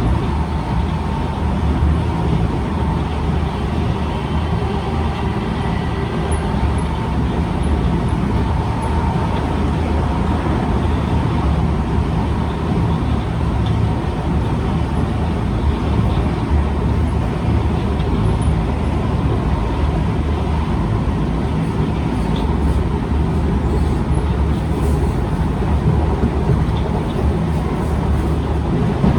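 Inside a Kawasaki C151 metro train running at speed: a steady rumble of wheels and running gear on the track, with a faint steady whine above it.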